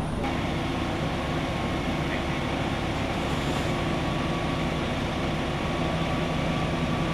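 Heavy vehicle engine idling, a steady low hum with no change in pitch.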